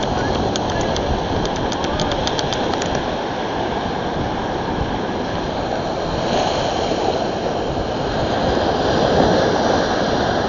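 Wind blowing on the microphone over the steady rush of ocean surf, with a quick run of light clicks in the first few seconds.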